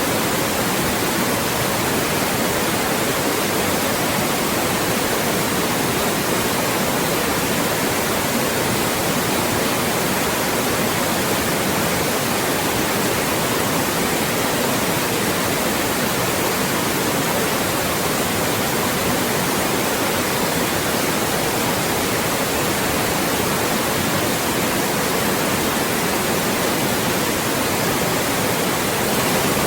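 Loud generated white noise: an even, steady hiss across the whole range, with no changes.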